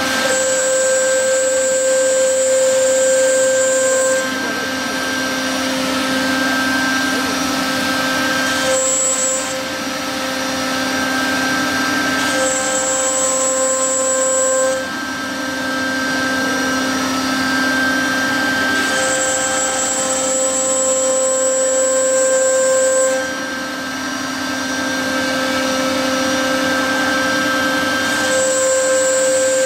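CNC router with a 3.5 kW air-cooled spindle cutting fibreboard: a steady machine whine. A higher-pitched tone joins several times, each for a few seconds, and the sound is a little louder while it lasts.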